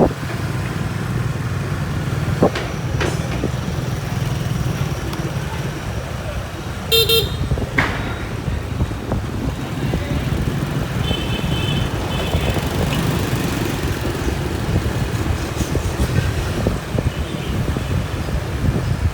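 Motorbike ride in city traffic: a steady rumble of engine and road noise, with a short horn beep about seven seconds in and a longer horn note about eleven seconds in.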